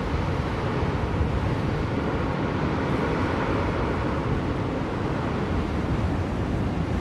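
Blizzard wind, a steady dense rush that swells a little about three seconds in.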